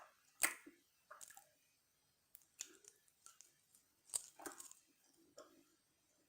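French fries being chewed with the mouth open: soft, sparse mouth clicks and wet chews, the loudest about half a second in and around four seconds in.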